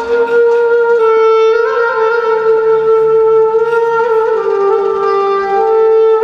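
A woodwind instrument playing a slow melody of long held notes that step between pitches, with a brief ornament about a second and a half in, during an instrumental passage of Turkish art music.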